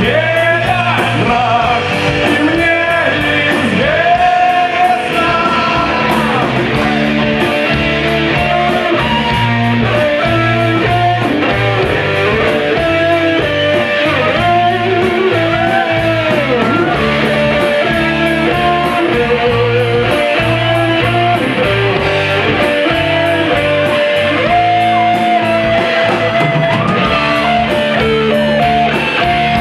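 Rock music: an instrumental break with a lead guitar playing bending melody lines over the band.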